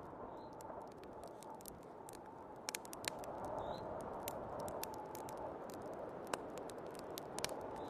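Wood fire crackling in a fireplace, with scattered sharp pops several times a second, over the steady rushing wind of a snowstorm that slowly swells and eases.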